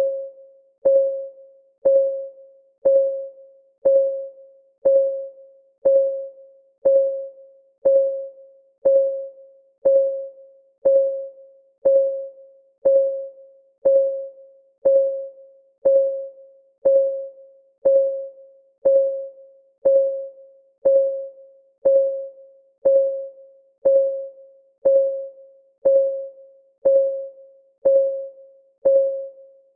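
Countdown timer's clock-ticking sound: a short, pitched tick once a second, each dying away quickly, all alike and evenly spaced.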